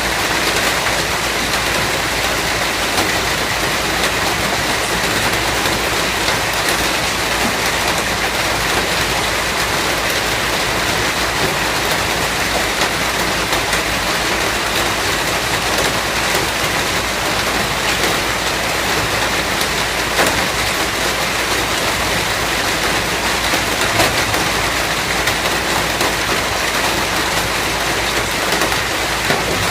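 Steady rain falling, with a dense, even hiss and many small drops ticking on a surface.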